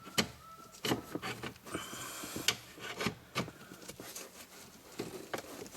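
Front parking brake cable being worked through its bracket by hand: scattered clicks and knocks with a few short rubbing scrapes.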